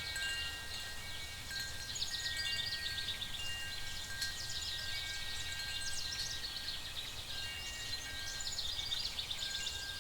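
Layered fantasy night-forest ambience: soft chime-like tones held at several pitches, overlapping and changing every second or two, with recurring bursts of fast high chirps over a low steady rumble.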